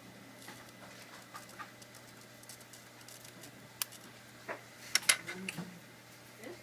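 Small clicks and taps from laptop parts and tools being handled during disassembly. Scattered faint ticks give way to a few sharper clicks, with the loudest cluster about five seconds in, over a steady low hum.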